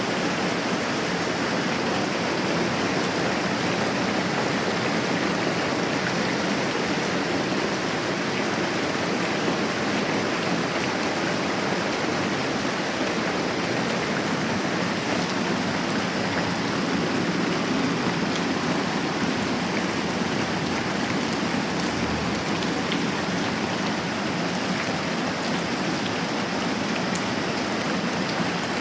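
Moderate rain falling steadily, an even hiss with a few faint scattered ticks.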